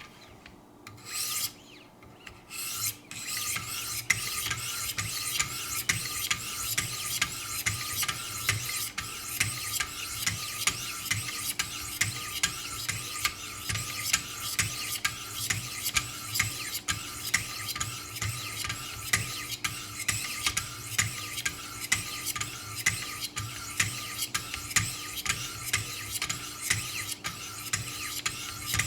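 Diamond sharpening stones of a Wicked Edge guided sharpener rasping along a knife edge at 600 grit: a few short strokes at first, then continuous rapid back-and-forth strokes with a sharper scrape about twice a second.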